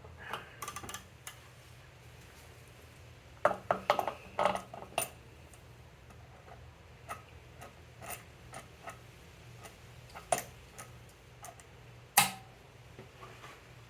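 Scattered clicks and light knocks of hand tools and parts being handled while the scooter's tank is tightened down, with a quick run of them about four seconds in and a sharper knock near the end, over a low steady hum.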